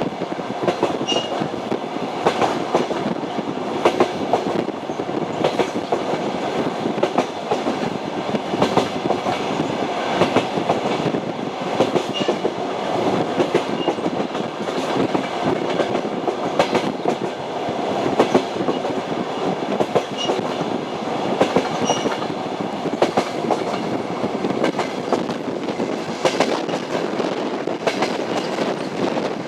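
Passenger train wheels clattering over the rail joints of jointed track, a steady rolling rumble with repeated sharp clicks every second or two.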